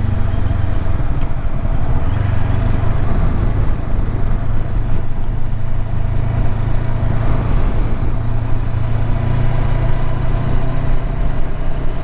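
Motorcycle engine running steadily under way, a low constant drone, with wind rushing over the helmet-mounted microphone.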